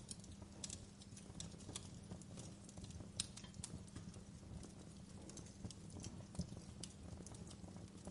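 Wood fire burning in a fireplace: irregular crackles and sharp pops over a low, steady rumble of the flames, with a few louder pops about three seconds in and again about six seconds in.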